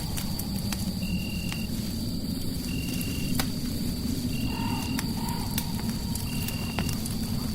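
Crackling fireplace, with scattered sharp pops over a steady low rumble of noise. A short, high-pitched chirp repeats every couple of seconds against a faint steady high whine.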